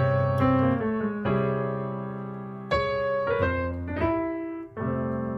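Piano playing a ii–V–I progression with flat-two minor upper-structure chord voicings: several chords struck and left to ring and fade, a new chord every second or so.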